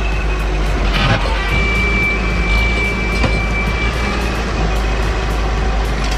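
Heavy diesel logging machine engine running steadily with a deep low rumble. A thin, steady high tone sounds for about two and a half seconds, starting about a second and a half in.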